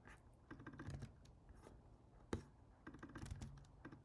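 Computer keyboard typing, faint, in short runs of keystrokes with pauses between, and one sharper key or mouse click a little past halfway.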